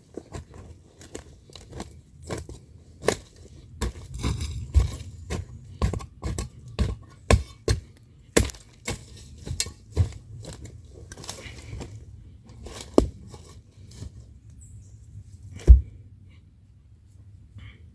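Dry sticks and twigs being snapped and handled to build a fire bed: irregular sharp cracks and rustles, with one louder snap near the end.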